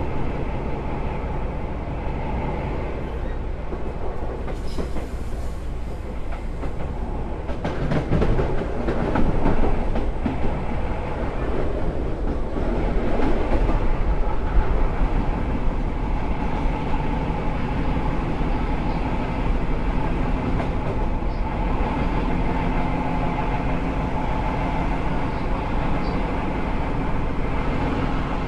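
Seibu 2000 series electric commuter train running, heard from inside the passenger car: a steady rumble of wheels on track with some rail-joint clatter. A steady hum runs through it, and the noise grows louder for several seconds starting about eight seconds in.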